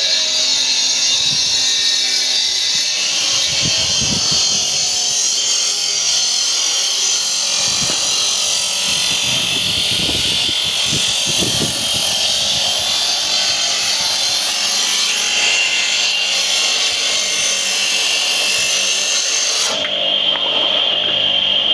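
Power tool cutting stone, a steady high-pitched whine and hiss whose highest part drops away about twenty seconds in.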